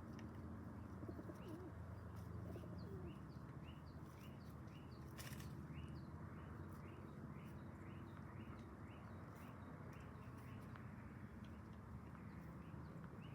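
Pigeons cooing softly a few seconds in, over a steady low hum, while a high chirp repeats about twice a second through most of the stretch.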